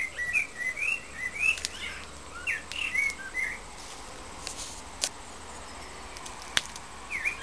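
A bird singing a quick series of short, rising whistled chirps for about three and a half seconds, then falling silent and starting again just before the end. Two sharp clicks come in the pause.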